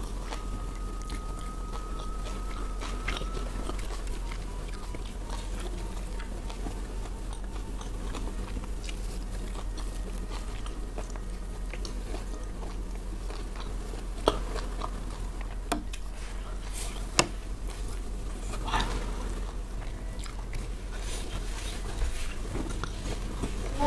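Close-miked chewing and mouth sounds of a person eating rice and spicy side dishes by hand, with a few sharp clicks standing out in the second half over a steady low hum.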